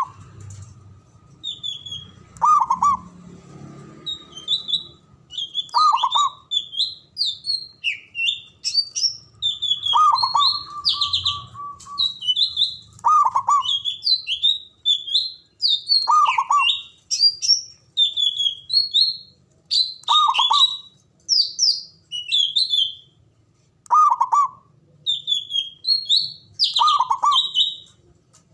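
Zebra dove (perkutut) cooing: a short burst of low coos repeated about every three to four seconds, one phrase ending in a longer held note. Other small birds chirp and trill rapidly at a much higher pitch throughout.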